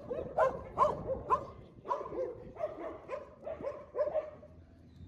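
Dogs barking and yipping in a quick run of short, high calls, about two a second, tailing off near the end.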